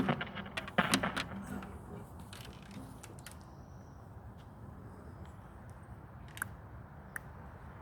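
Handling noise: a quick flurry of small clicks and knocks in the first second or so, then a low steady background with a few scattered faint ticks.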